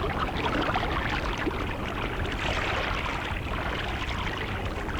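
Shallow seawater trickling and lapping over coral exposed at low tide, a steady watery wash with no single splash standing out.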